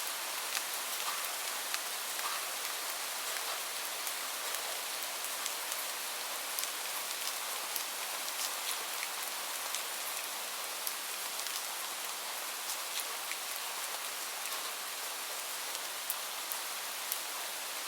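Steady rain hissing, with individual drops ticking sharply here and there.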